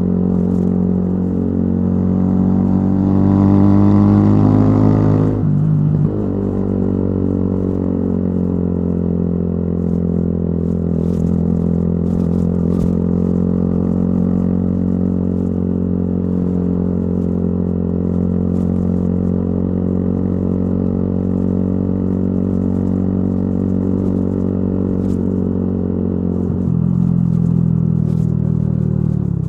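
Yamaha YZF-R125's single-cylinder four-stroke engine through a modified exhaust, heard while riding. It rises in pitch under acceleration for a few seconds, drops sharply at a gear change about five seconds in, then holds a steady note at cruising speed, with another change in engine note near the end.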